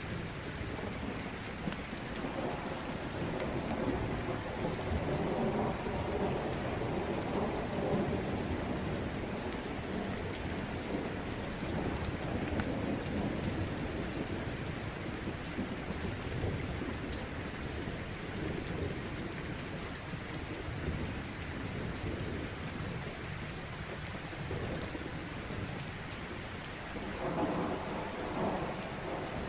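Steady rain with low rolling thunder that swells and fades, rising strongly in the first few seconds and again near the end, over a scatter of fine crackling ticks.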